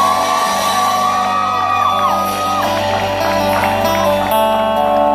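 Live country band music near the end of a song, with a long note held for about two and a half seconds over sustained chords. Shouts and whoops from the audience come through.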